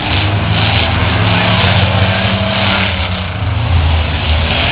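Truck engine running hard, a loud low drone whose pitch shifts a little, over heavy noise.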